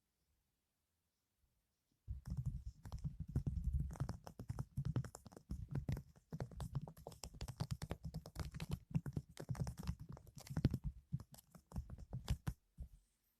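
Soap packaging being handled and unwrapped close to the microphone: a dense run of rapid crackling and clicking with soft thumps. It starts about two seconds in and stops about a second before the end.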